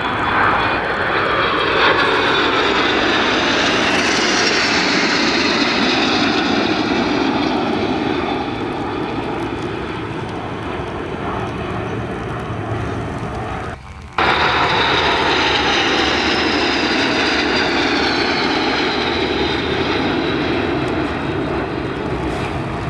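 Airplane engine noise from a passing aircraft, its tones slowly falling in pitch as it goes by. About two-thirds of the way through, the sound drops out abruptly for a moment, then comes back loud with another slow fall in pitch.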